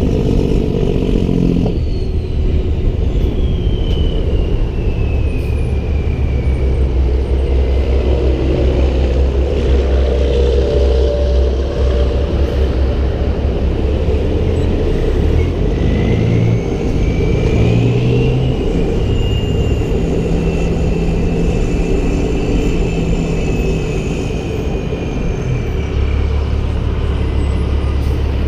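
Heavy semi truck's diesel engine running on the road, its note shifting several times, with a faint high whine that rises and falls.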